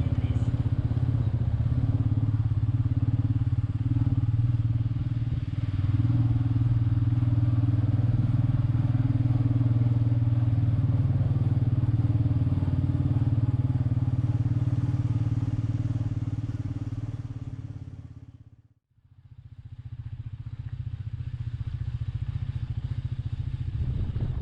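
Royal Enfield Meteor 350's single-cylinder engine running steadily at cruising speed, with road and wind noise. The sound fades away about three-quarters of the way in and comes back a second or so later.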